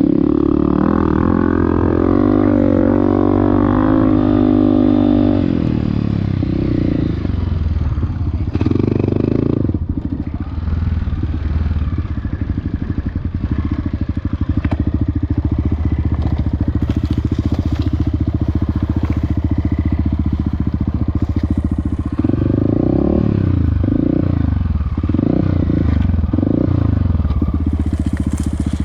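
Off-road motorcycle engine under way, revving up and down repeatedly in the first few seconds and again near the end, running steadier in between.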